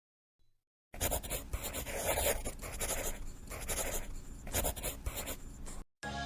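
A pen drawing on paper in a series of scratchy strokes with short pauses between them, starting about a second in and stopping just before the end.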